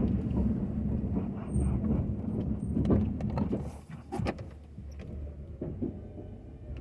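Ford F-250 pickup running while plowing snow, louder for the first four seconds and then dropping off, with several sharp knocks in the middle.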